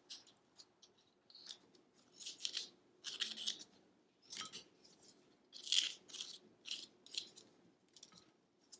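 Peanut butter being pressed and spread into a pine cone's scales: a series of short, irregular scraping and rustling strokes.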